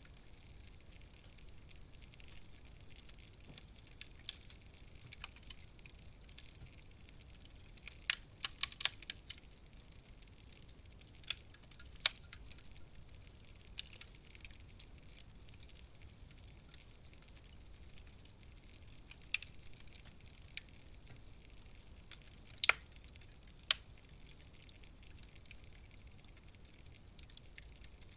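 Wood fire crackling in a fireplace: a soft steady hiss with scattered sharp pops, a quick run of them about eight seconds in and a few single loud pops later.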